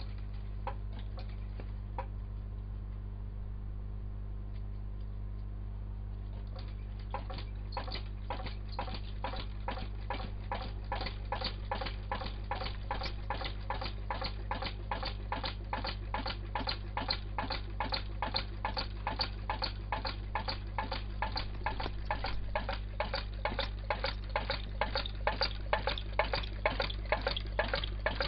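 Homemade big-flywheel Stirling engine running, clicking once with each turn of the flywheel. The clicks start about a quarter of the way in at roughly two a second, then grow louder and a little faster as the engine picks up speed. A steady low hum runs underneath.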